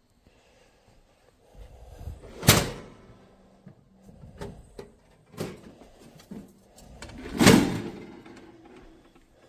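Things being handled and set down: two loud clunks, about two and a half and seven and a half seconds in, each with a short scrape just before, and lighter knocks between.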